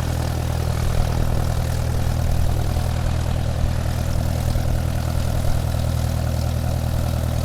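Small electric motor spinning the propeller of a homemade model airplane, running steadily with a low hum and a rushing whir.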